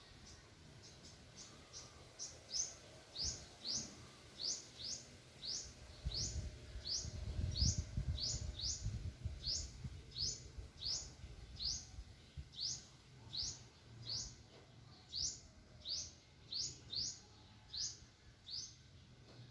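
A bird calling over and over with a short, high chirp that sweeps upward, about three chirps every two seconds. A low rumble comes and goes partway through.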